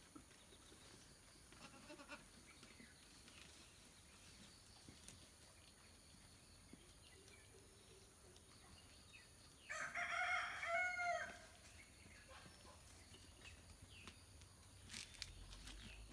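A single call from a farm animal, about a second and a half long and in two parts, rising and falling in pitch, about ten seconds in over faint background.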